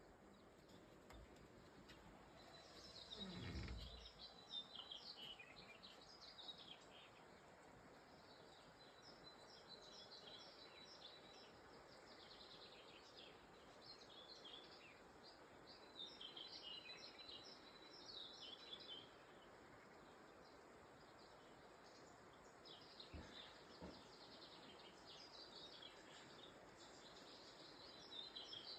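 Faint birdsong: small birds chirping and twittering in bursts over a steady outdoor hiss. A low falling rumble passes about three seconds in.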